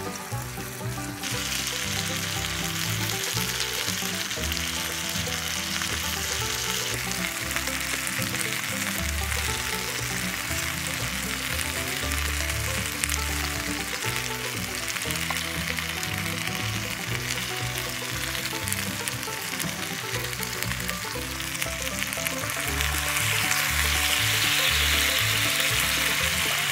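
Meat and sliced garlic sizzling as they fry in a small pan, a steady hiss that starts about a second in and grows louder near the end. Background music with a soft bass line plays underneath.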